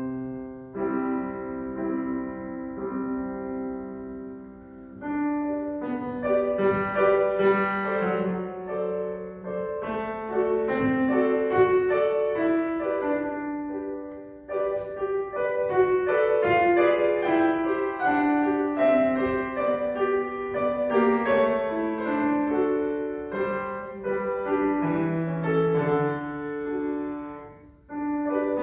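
Solo acoustic piano playing a classical piece: a melody over held chords, with a short pause near the end before the playing goes on.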